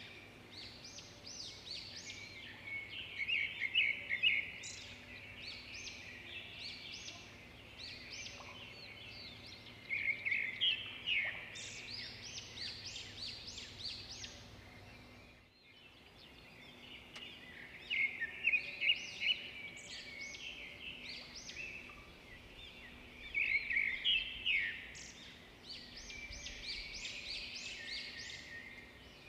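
Wild birds calling: clusters of quick, high chirps and trills come every few seconds over a quiet background.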